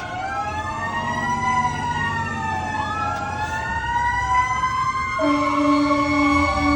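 Fire engine sirens wailing, with several tones slowly rising and falling over one another, including the mechanical Q siren. About five seconds in, a steady air horn blast starts and holds.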